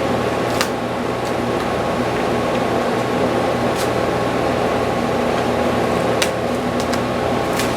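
Steady hum of a fan or air-handling unit running, with a few brief, faint ticks scattered through.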